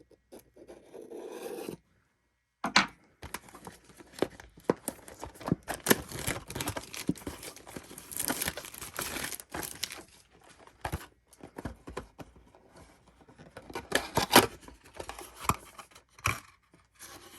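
Plastic shrink wrap being torn and peeled off a cardboard trading-card blaster box, with irregular crinkling and crackling and sharp clicks of the plastic and box being handled.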